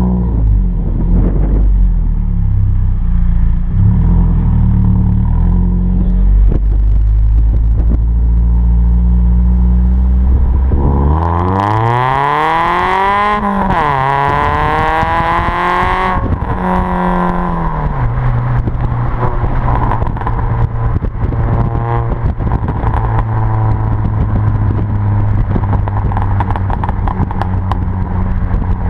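Ford Fiesta Mk6 ST's 2.0-litre four-cylinder engine idling through a Milltek 4-2-1 decat manifold and non-resonated exhaust. About halfway through it is revved twice, rising in pitch each time. It then drops back to a steady idle.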